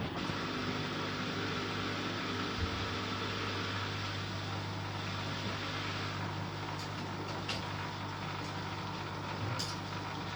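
Bosch Aqua Star washing machine running, with a steady motor hum and a few light clicks in the second half.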